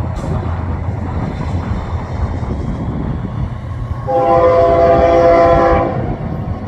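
A diesel locomotive's multi-note air horn sounds one long blast of just under two seconds, starting about four seconds in. Under it runs a steady low rumble from the approaching train.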